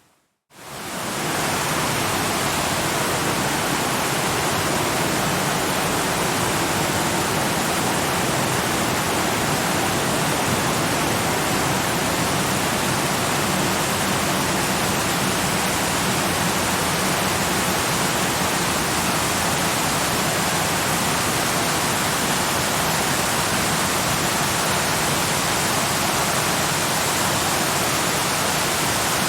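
Waterfall's steady rush of falling water. It fades up from a moment of silence in the first second or so.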